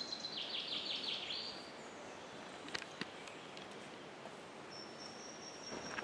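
Woodland birdsong: a fast trill in the first second and a half, then a thin, steady high note held near the end, over a quiet outdoor background. Two sharp clicks come about three seconds in.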